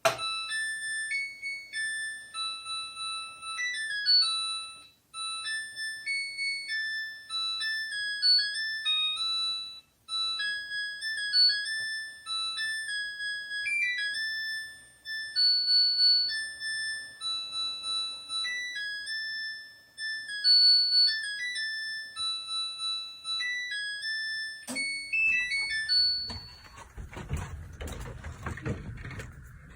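An electronic beeper playing a melody of clean, single beep-like notes, like an alarm or appliance tune, for about 25 seconds. It stops abruptly, followed by rumbling, rustling noise.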